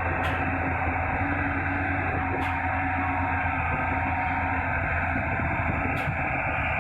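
Tata Hitachi Zaxis 470 excavator's diesel engine running steadily with a low hum, with three faint clicks.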